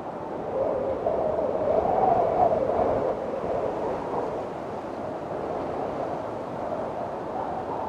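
Windstorm wind howling, a whistling tone that wanders up and down in pitch over a constant rush. It swells about two seconds in and eases a little after.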